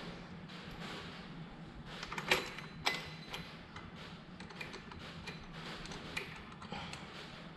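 Small clicks and clinks of tools and metal parts being handled, with two sharper clanks a little over two and about three seconds in.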